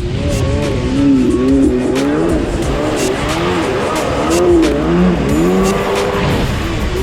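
Kawasaki ZXi 1100 jet ski's two-stroke triple engine running hard, its pitch rising and falling again and again, over heavy wind and water-spray hiss with scattered sharp knocks.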